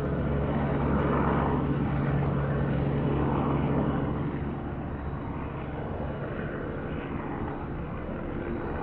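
Helicopter's engine and rotors droning steadily, with a strong low hum that eases off about halfway through.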